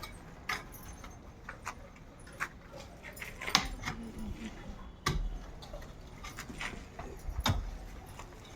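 Irregular sharp clicks and knocks of hand work on a building site, about one every second. The strongest come about three and a half, five and seven and a half seconds in.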